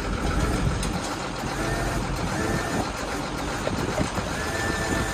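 A service truck's crane lifting a truck cab: the truck's engine runs steadily underneath while the crane whines in a steady high tone, twice for about a second each.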